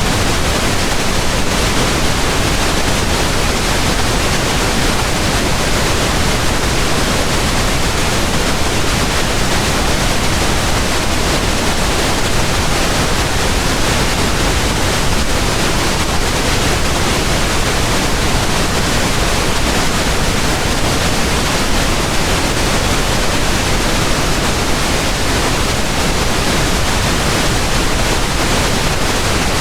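Steady pink noise: an even, unchanging hiss spread across the whole range of pitch, with no events or changes.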